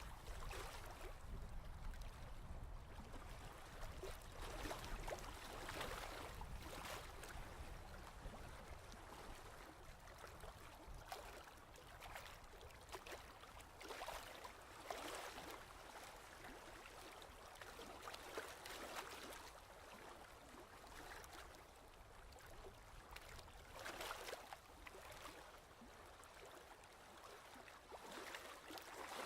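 Ocean waves washing in and out: a faint, soft rushing that swells and falls away every few seconds.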